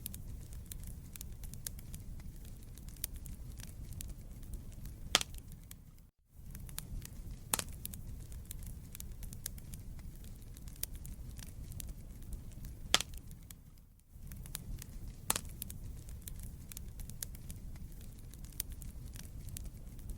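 Wood fire burning in a fireplace: a steady low rumble of flames with constant small crackles and a few louder sharp pops from the burning logs. The sound cuts out briefly twice.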